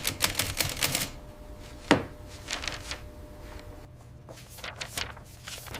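Rapid typing clicks for about a second, then a single sharp knock and scattered lighter clicks and rubbing, like papers and objects being handled.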